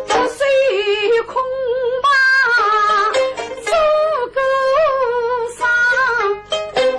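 Pingtan (Suzhou tanci) singing: a single voice sings a slow, ornamented melody with wavering vibrato, with plucked-string accompaniment.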